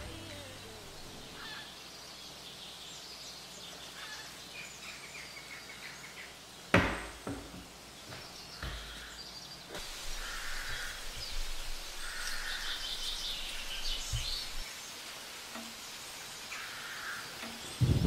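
Wild birds chirping and calling in short scattered phrases over a steady outdoor background. A single sharp knock sounds about seven seconds in.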